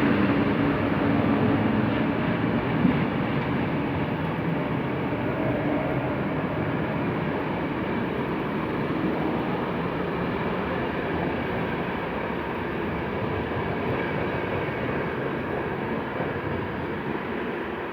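Passenger train rolling past on the rails: a steady rumble and rushing noise of wheels and carriages, slowly fading as it moves away.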